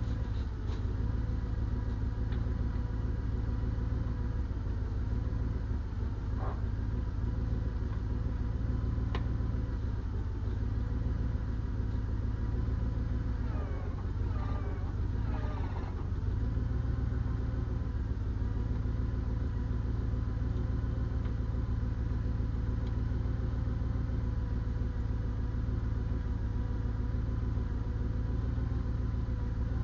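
Heavy diesel engine running steadily, with a brief unsteadiness about halfway through.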